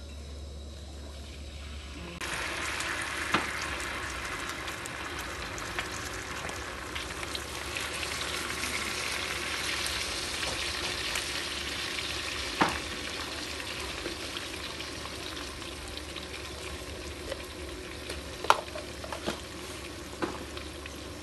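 Oil sizzling in a wok as minced ingredients fry, starting about two seconds in after a low steady hum. A metal spoon stirs them and clinks against the pan a few times.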